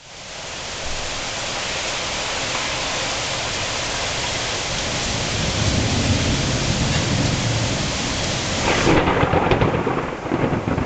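Thunderstorm: a steady hiss of heavy rain, with a low rolling rumble of thunder swelling through the middle. About nine seconds in, the rain hiss drops away abruptly, leaving rougher, uneven noise.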